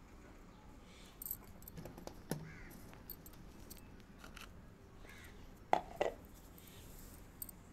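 Bird calls in the background, with two short, loud calls in quick succession about six seconds in over a faint steady background.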